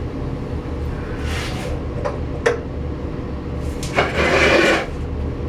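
Coal and a metal tool scraping and clinking in the firebox of a wood-and-coal furnace over a steady low rumble, with a sharp clink about two and a half seconds in and a louder rough scraping, rattling rush near the end.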